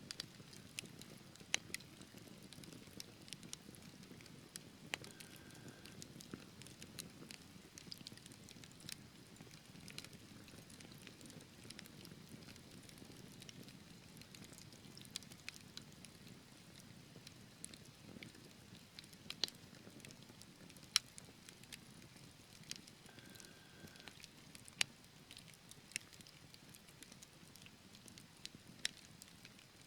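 Wood fire burning in a fireplace: logs crackling with irregular sharp pops over a soft, steady low rush of flame.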